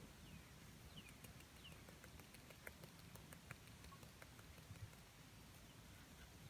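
Faint bird calls: two short chirps falling in pitch about a second in, over faint scattered ticks.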